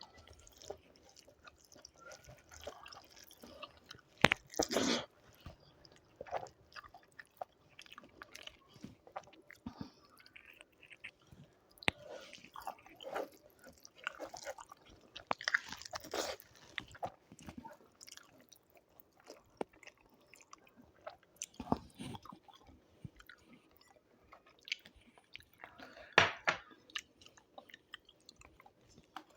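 A person eating close to the microphone: chewing with wet mouth clicks and occasional crunchy bites, in irregular bursts. The louder bites come a few seconds in and again near the end.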